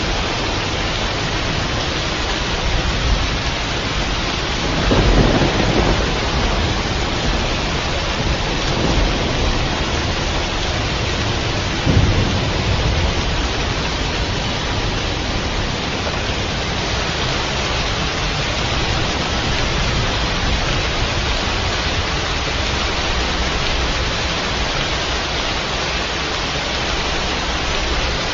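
Steady heavy rain with thunder: a low rumble swells about five seconds in, and a shorter, sharper clap comes about twelve seconds in.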